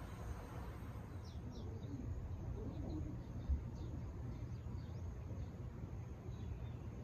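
Outdoor ambience of small birds chirping in short, quick downward notes scattered throughout, over a steady low rumble. A single thump sounds about three and a half seconds in.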